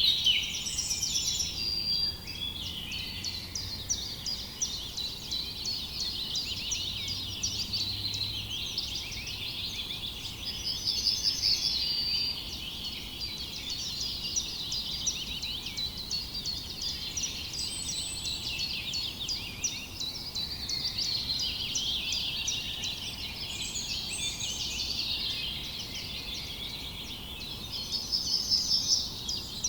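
A chorus of songbirds chirping and singing without a break, many quick overlapping notes. Louder trilled phrases of rapidly repeated notes stand out about a second in, around eleven seconds and near the end.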